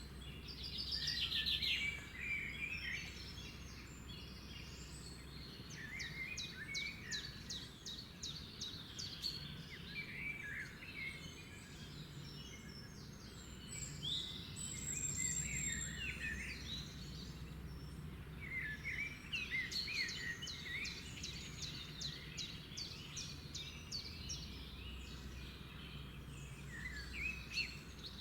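Several songbirds singing and calling over one another, with rapid trills and short chirps, over a steady low background hum.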